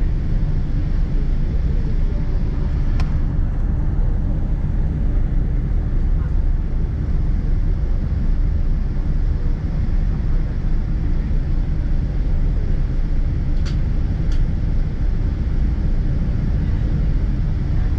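Steady low rumble heard inside the cabin of a Boeing 777-200ER while it taxis, made by its Rolls-Royce Trent engines at idle and the airframe rolling along the taxiway. A few faint clicks come through, one about three seconds in and two close together near the end.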